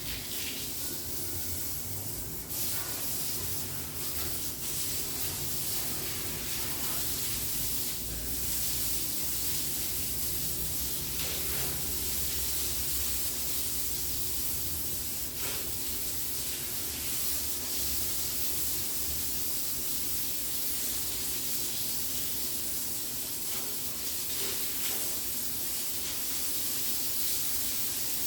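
Steady hissing spray of water, setting in about two and a half seconds in and running on without a break, with a low rumble underneath.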